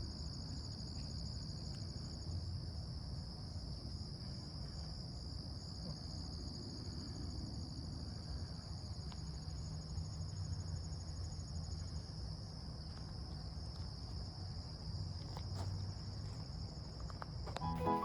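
Steady, high-pitched chorus of insects, such as crickets, trilling without a break, over a faint low rumble.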